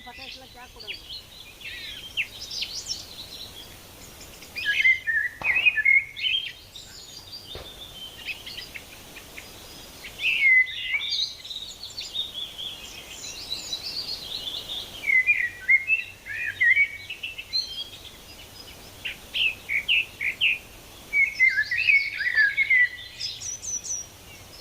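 A songbird singing: a varied phrase of quick chirps and trills, repeated about every five seconds, over a faint steady background hiss.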